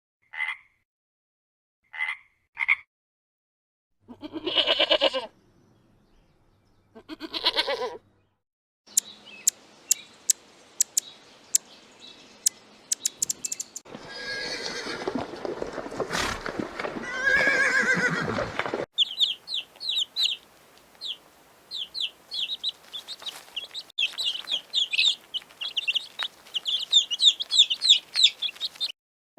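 A series of farm animal calls cut together from short clips. First come a few short chirps and two brief pitched calls, then sharp clicking, two loud drawn-out calls, and finally a long run of rapid, high-pitched chirps.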